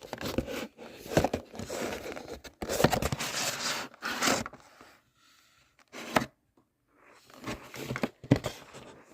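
Model locomotive packaging being handled: cardboard and plastic wrapping rustling, crinkling and scraping in irregular bursts for the first four seconds or so, a sharp click about six seconds in, then more rustling near the end.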